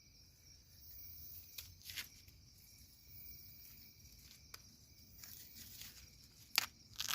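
Night insects, crickets among them, chirring steadily in several high steady tones, with a few short sharp clicks, the two loudest near the end.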